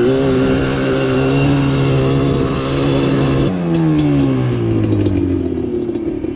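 ATV engine running steadily under throttle. About three and a half seconds in, its pitch drops and keeps falling as the quad slows.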